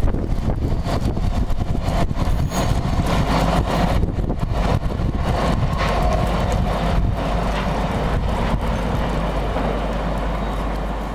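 Container freight train running away along the line: wagon wheels clatter over the rail joints in quick clicks, and a rumble fades slowly as the train draws off.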